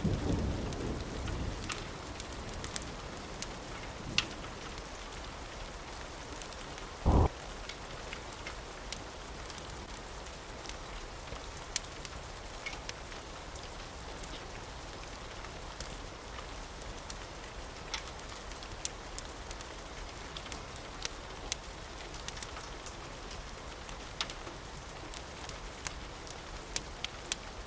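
Steady rain with a low thunder rumble dying away in the first second or two. Scattered sharp crackles of a wood fire run through it, and one short dull thump comes about seven seconds in.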